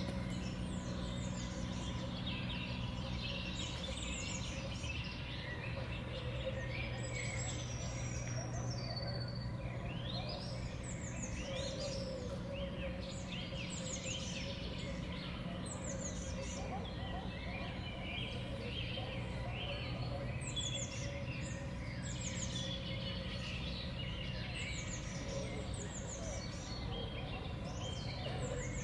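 Small songbirds calling around a feeder, with many short high chirps overlapping throughout, over a steady low hum.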